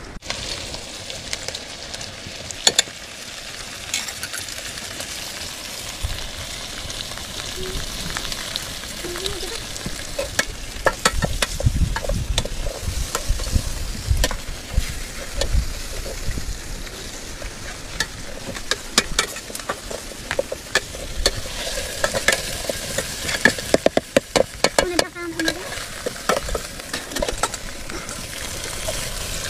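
Chicken sizzling in hot oil in a pot over a wood fire while a long metal ladle stirs it, scraping and knocking against the pot in frequent sharp clicks.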